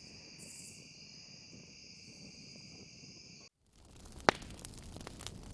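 Crickets trilling steadily in the evening. After a brief break, a wood campfire crackles with scattered sharp pops, one loud pop about four seconds in.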